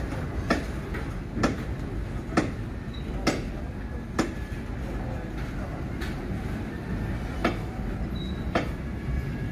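Train of loaded flat wagons rolling slowly past, its wheels clicking over the rail joints about once a second over a steady low rumble.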